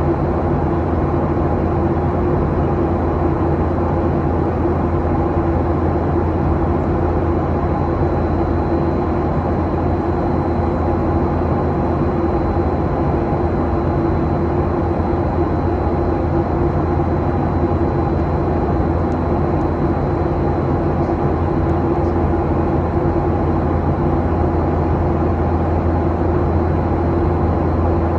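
Jet airliner cabin noise in flight: a steady engine and airflow drone, deep and even, with a faint thin high whine above it.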